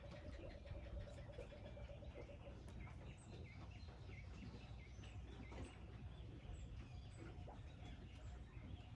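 Faint outdoor bird ambience: small birds chirping over and over on top of a steady low rumble, with a short pulsing trill in the first couple of seconds.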